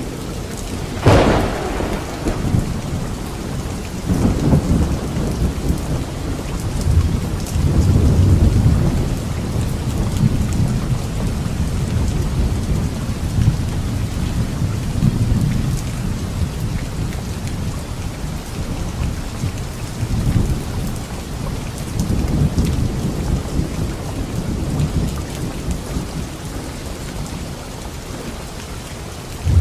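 Thunderstorm: steady heavy rain with a sharp thunderclap about a second in, then low thunder rumbling and rolling on and off.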